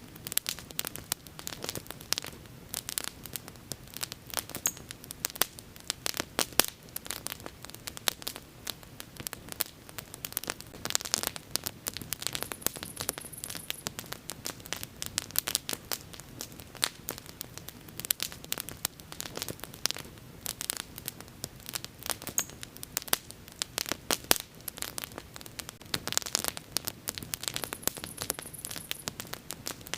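Wood bonfire burning with dense, irregular crackles and pops over a steady low rumble of the flames. Twice a brief faint high-pitched sound rises above the crackling.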